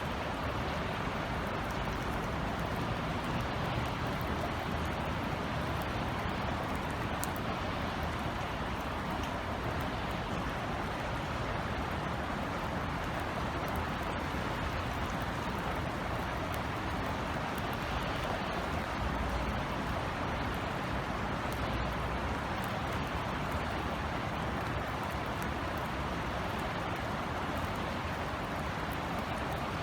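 Drizzle falling steadily, an even hiss of rain over a low background city rumble.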